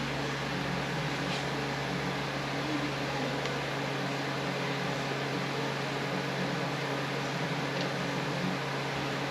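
Steady mechanical hum, as from a fan or air conditioner, with a low even drone and a few faint light taps.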